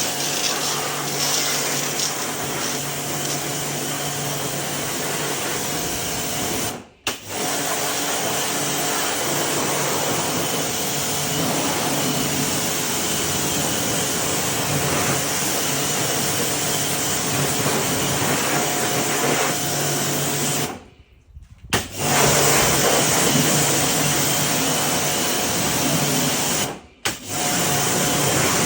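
A small electric motor-driven machine running steadily with a loud hiss and a faint hum. It cuts out briefly three times: about seven seconds in, for about a second around twenty-one seconds, and again near the end.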